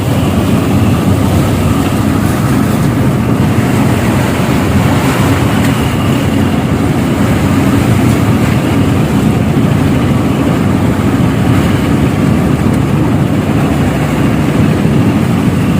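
Tugboat engine running steadily, a loud, even low rumble heard on board.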